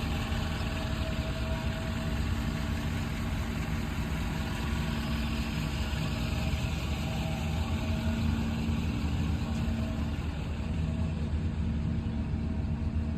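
2013 Ford King Ranch's stock 6.7 L Power Stroke turbo-diesel V8 idling steadily.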